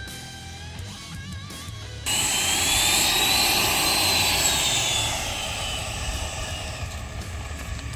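Guitar music briefly, then a sudden cut to the loud whine and rush of the RC F-15 Eagle's twin 90mm electric ducted fans at high power; the whine rises and then falls in pitch and fades off over the last few seconds.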